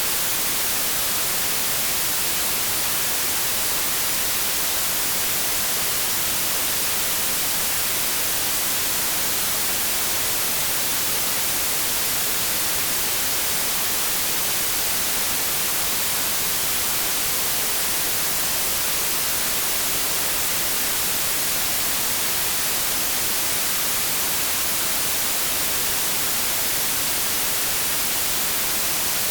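Synthetic white noise: a steady, unchanging hiss, brightest in the high range.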